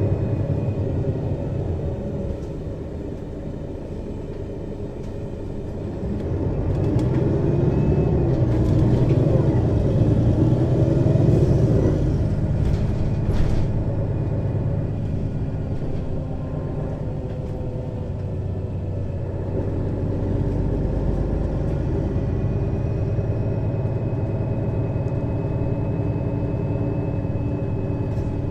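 Mercedes-Benz Citaro O 530 city bus with a ZF Ecomat 2 6HP-592 C automatic gearbox, heard from above the engine: the diesel engine runs, grows louder and rises in pitch from about six seconds in as the bus pulls away, drops back at a gear change about twelve seconds in, then runs steadily.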